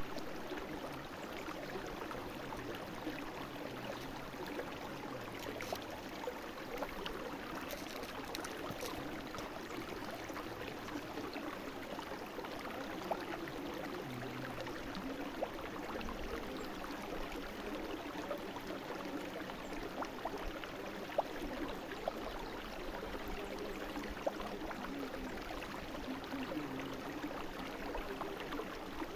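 Small brook flowing steadily, a continuous even rush of water.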